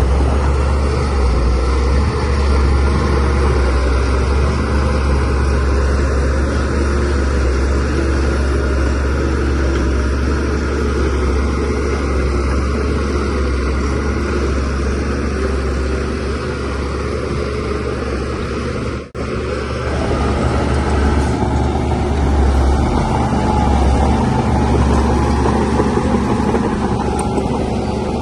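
DH17C3 bulldozer's diesel engine running steadily under work, with a deep, continuous rumble. The sound cuts out for a split second about two-thirds of the way through, then carries on unchanged.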